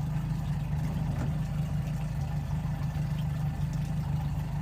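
Boat engine running steadily at idle, an even low hum with a fast pulse.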